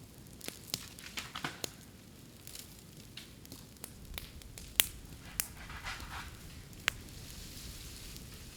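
Bamboo burning in a bonfire: sharp, irregular pops and crackles, the loudest about five seconds in, over a hiss that swells in the second half.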